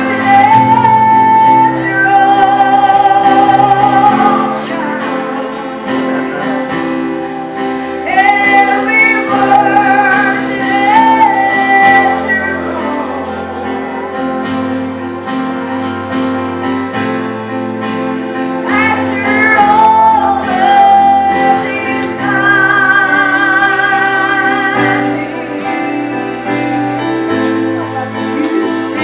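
A woman singing a slow gospel song in long held phrases over instrumental accompaniment with sustained chords and a bass line.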